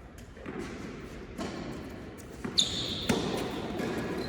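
Tennis balls being struck and bouncing on an indoor court: a few sharp hits, the loudest about two and a half seconds in and another half a second later, with a brief high squeak after the loud hit.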